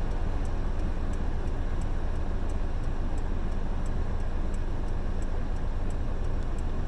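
Car cabin noise while driving: a steady low engine and road rumble, with a faint regular tick about three times every two seconds.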